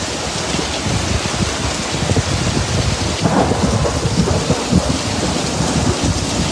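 Heavy rain pouring down in a flash-flood storm: a dense, steady hiss with a strong, uneven low rumble underneath.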